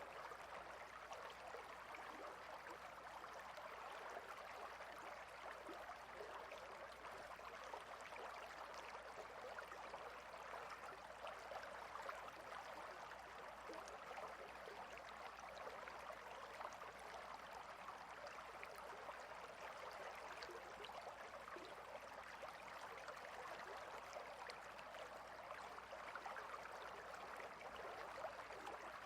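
River water flowing over rocks: a faint, steady rushing with fine trickling detail.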